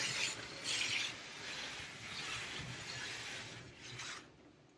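Automatic car wash running over the car, heard from inside the cabin: a hissing wash of water spray and machinery, with louder surges in the first second, easing off and fading away near the end.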